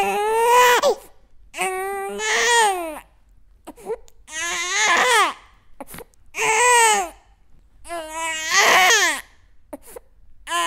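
Baby crying in repeated wails: about five cries, each lasting roughly a second, with short pauses for breath between them.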